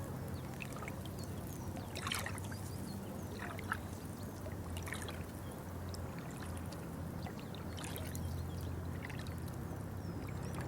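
Water trickling and lapping over a steady low hum, with a few brief sharp sounds, the clearest about two, four and five seconds in.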